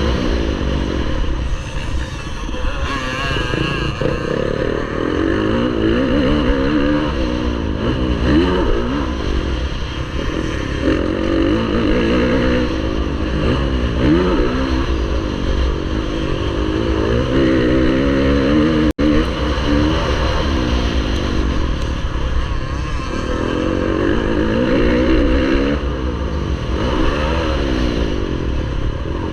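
Motocross bike engine racing, its pitch rising and falling again and again as the throttle is opened and closed through the corners and straights of the track. The sound drops out for an instant about two-thirds of the way through.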